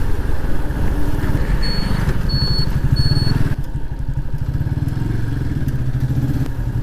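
TVS Apache 180's single-cylinder engine running at low speed, with three short high-pitched beeps about half a second apart in the first half; a little past halfway the upper noise drops away and the engine settles into a steady idle.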